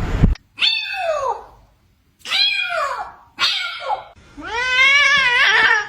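A cat meowing four times. The first call slides down in pitch, two shorter calls follow, and the last is the longest, lasting about a second and a half.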